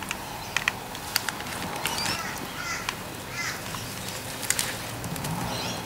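Birds calling, a run of short, curving chirps repeated a few times, with scattered sharp clicks and taps over a faint steady low hum.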